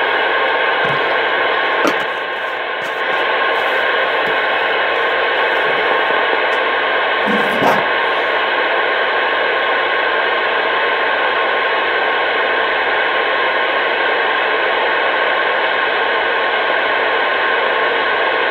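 CB radio static: a steady rushing hiss from the receiver with no voice on it, dipping briefly about two seconds in, with a couple of faint clicks.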